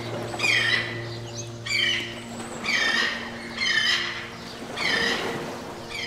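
A bird calling over and over, a descending squawk about once a second, over soft sustained background music chords that fade out partway through.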